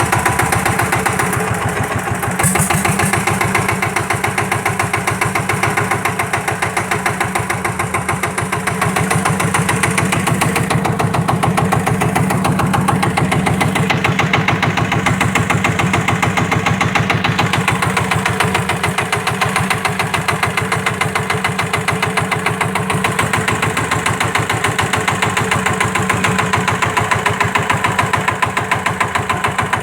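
A small engine running steadily at constant speed, its firing a fast, even pulse with no change in pace.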